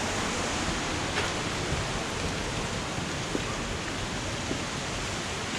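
Steady rush of flowing water from a creek and its waterfalls.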